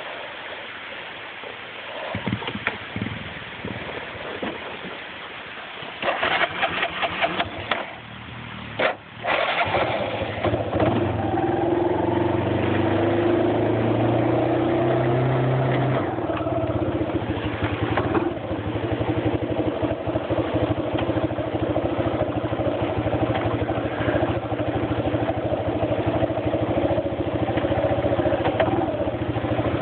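Off-road vehicle's engine starting: rough cranking noise about six seconds in catches just after nine seconds. It then runs with revs rising and falling briefly before settling into a steady run.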